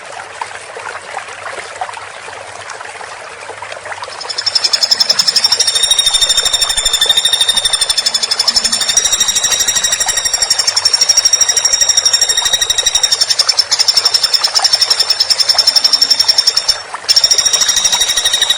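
Woodpecker (pelatuk) giving a long, very rapid, high rattling call over the hiss of running water. The call starts about four seconds in and breaks off briefly near the end.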